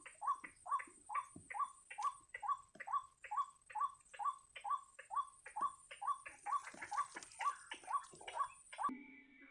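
White-breasted waterhen calling: a steady, rhythmic run of short repeated calls, about three a second, which cuts off near the end.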